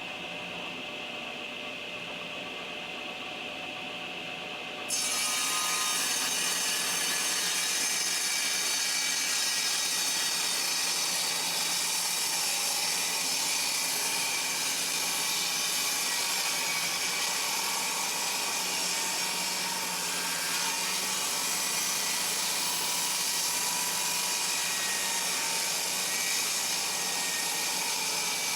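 A steady hum, then about five seconds in a table saw blade bites into a rough hardwood board and cuts steadily as the board is fed through, taking a light trimming pass along the edge.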